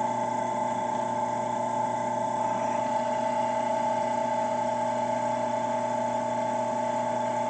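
Small 8-inch benchtop drill press running steadily at its slowest spindle speed with a 1/8-inch bit, giving an even motor hum and a steady whine that do not change.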